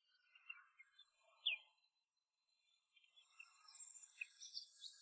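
Near silence broken by a few faint, short bird chirps, the clearest about one and a half seconds in.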